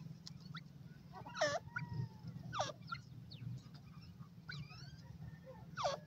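Birds calling: three loud calls that slide steeply downward in pitch, about a second and a half in, a second later, and again at the end, with shorter chirps between them. A low steady hum runs underneath.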